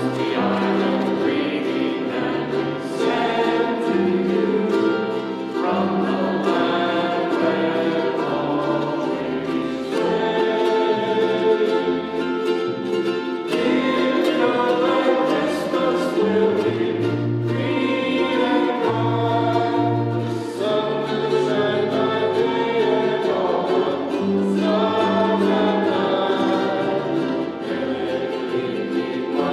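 A choir singing with instrumental accompaniment, the low bass notes changing every second or two.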